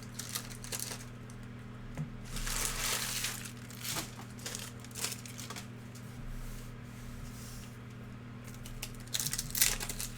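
Trading-card packs' plastic wrappers being torn open and crinkled, with cards shuffled, in irregular short rustling bursts.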